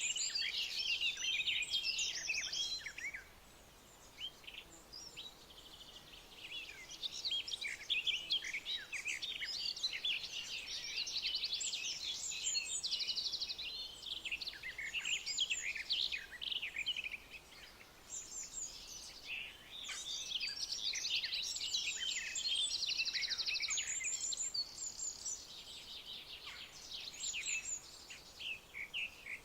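A chorus of songbirds chirping and trilling, many quick overlapping notes in bouts with short lulls between.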